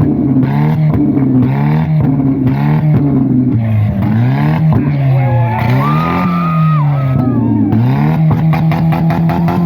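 Car engine running loud and revving, its pitch dipping and climbing back over and over.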